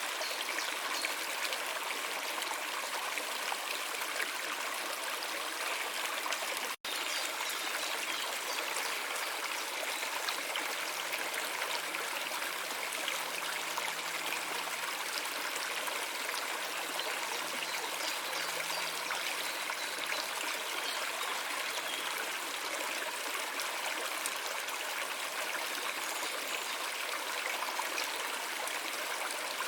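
Stream water flowing and trickling steadily, broken once by a split-second gap of silence about seven seconds in.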